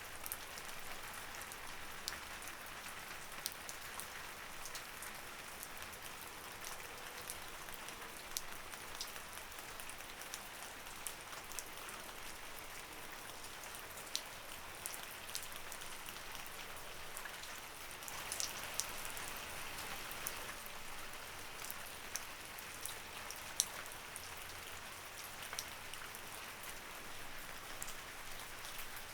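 Light rain falling steadily, a soft even hiss with scattered individual drops ticking sharply on a hard surface, growing slightly heavier for a couple of seconds past the middle.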